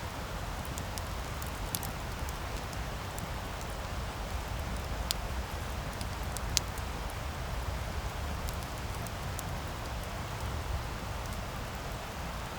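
Wood campfire burning: a steady low rush of flames with scattered crackles and sharp pops from the burning wood, the two loudest pops near the middle.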